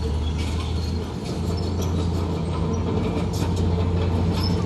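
Komatsu D41P crawler bulldozer's diesel engine running steadily under load, with scattered metallic clanks and short squeals from its steel tracks.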